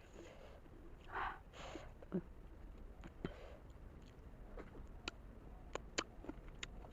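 A person chewing a large steamed momo dumpling: soft, wet mouth sounds with several sharp clicks and smacks, and a short breathy rush a little after a second in.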